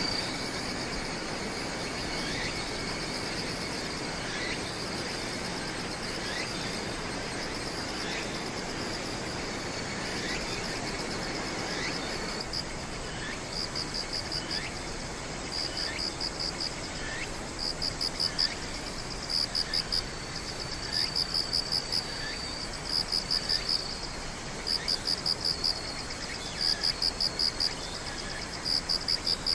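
Crickets singing: a steady high trill, joined about halfway through by a louder pulsed chirp repeating in short bursts about once a second, with faint short falling notes lower down in the first half.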